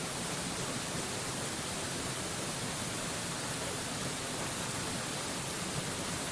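A waterfall's steady rushing noise, an even, unbroken hiss from deep to very high pitches, with no changes.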